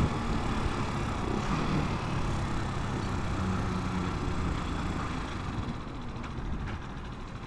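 Italika 250 motorcycle running along the road, its engine drone under steady wind noise on the helmet or bike camera mic. In the last couple of seconds the wind noise and overall loudness ease off as the bike slows.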